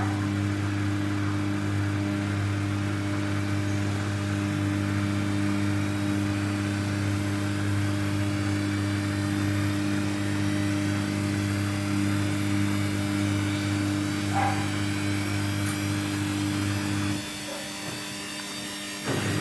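Samsung front-load washing machine spinning its drum during a rinse-and-spin cycle, a steady motor hum. The hum drops away about 17 seconds in and picks up again near the end.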